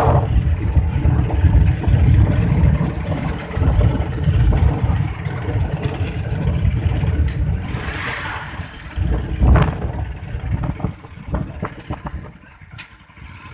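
Motorcycle riding along a road: engine running with heavy wind rumble on the microphone, easing off and getting quieter near the end.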